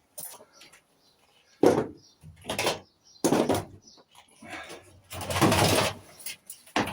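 Irregular knocks and clatter of metal parts being handled while a microwave oven is stripped for scrap, with a longer scraping noise lasting about a second near the end.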